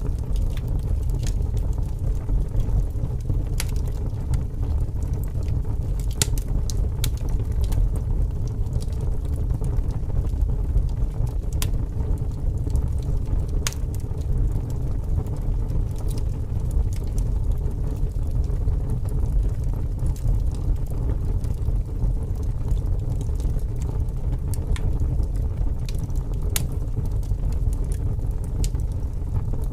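Wood fire burning with scattered sharp crackles and pops, over a steady low rumble of strong wind.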